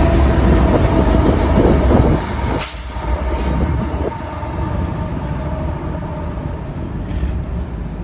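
Train passing close by: a loud rumble with a steady engine tone for about the first two seconds, then the level drops to a lower, steady rumble.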